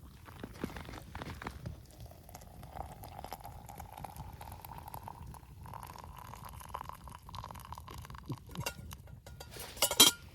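Water being poured into a container, its tone rising slowly as it fills, followed near the end by a few sharp clinks of metal or cookware.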